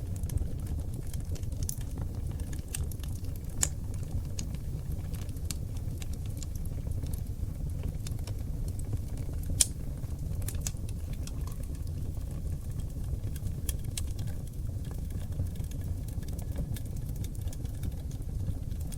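Oak log fire burning in a fireplace: a steady low rumble of flames with scattered crackles and pops, the sharpest pop about ten seconds in.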